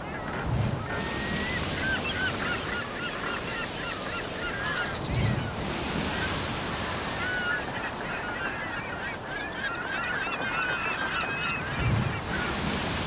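A flock of birds calling constantly, many short warbling calls overlapping, over the rush of surf that swells and ebbs, with three low thuds of waves breaking.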